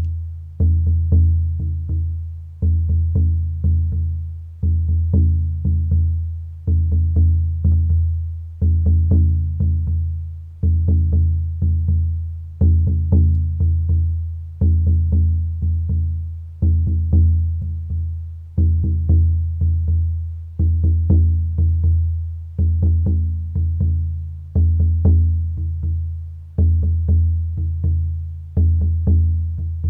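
Sound-healing music with a deep drum beating steadily, a strong stroke about every two seconds followed by lighter taps, over a sustained low drone.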